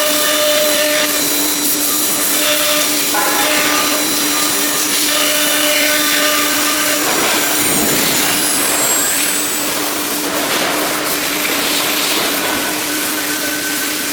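1530 ATC CNC router running under test: a steady spindle whine over loud hissing machine noise, with shifting overtones and a swell of noise about halfway through.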